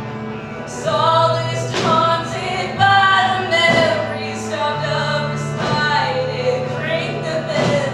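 Music with singing voices in harmony over a sustained low accompaniment. The voices come in strongly about a second in.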